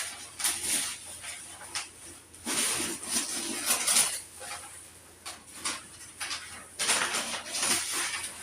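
Household items being handled and moved about: bursts of rustling and light clattering, several times.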